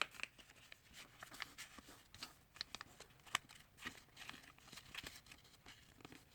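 Faint rustling and scattered crisp ticks of a sheet of letter paper being folded and creased by hand.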